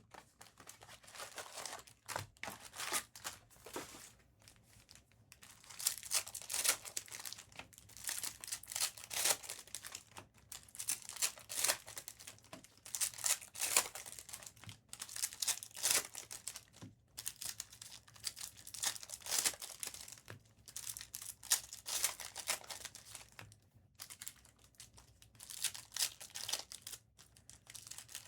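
Plastic wrapping on Bowman trading-card packs and boxes being crinkled and torn open by hand, in irregular bursts of crackling.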